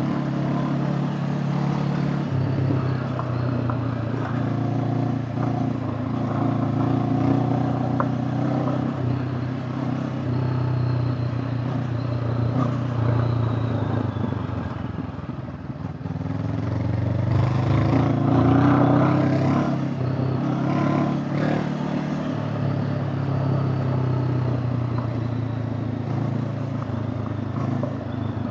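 Honda CB500X parallel-twin motorcycle engine running under way. It eases off about halfway through, then picks up again. Scattered knocks and rattles come through while it pulls.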